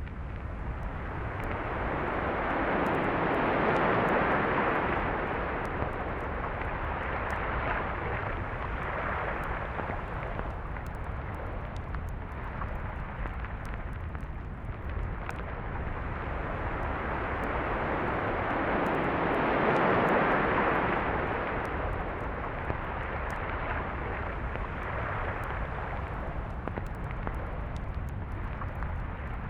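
Sea waves washing onto a beach: a steady wash that swells to two louder surges, about four seconds in and again about twenty seconds in, and eases between them.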